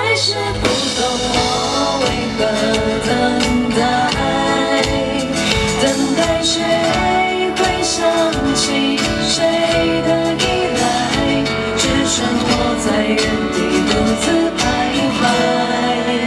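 Live band playing a slow pop ballad, with a steady beat under sustained chords. A female voice is heard with it.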